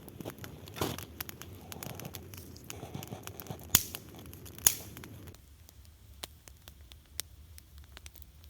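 Dry pine kindling being handled and broken for a campfire: rustling and crackling, with two sharp snaps a little under a second apart midway. After that comes a quieter stretch of scattered small crackles from the newly lit fire.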